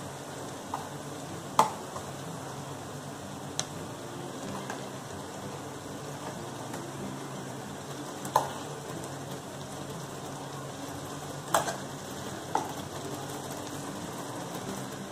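Sautéed onion sizzling steadily in hot oil in a wide aluminium kadhai as spoonfuls of ground masala paste are added, with about five sharp clicks of a steel spoon knocking against the pan and the bowl.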